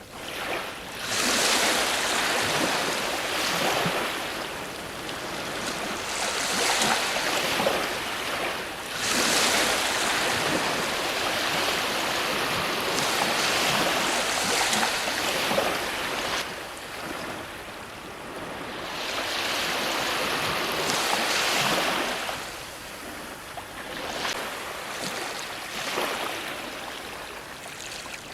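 Ocean waves breaking and washing up on a shore, each surge of surf swelling and fading every few seconds.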